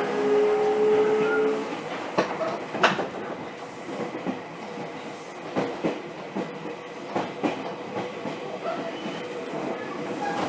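Seibu 2000-series electric train heard from inside its Mitsubishi GTO VVVF car: the inverter's whining tone rises slightly and stops about two seconds in. After that the train runs on with steady running noise and wheels clacking over rail joints, several sharp knocks spread through the rest.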